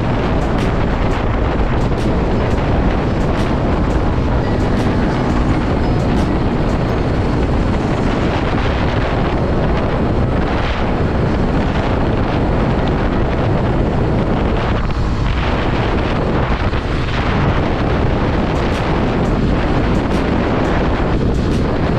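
Loud, steady wind rush on the microphone of a motorcycle under way, with the bike's running engine underneath.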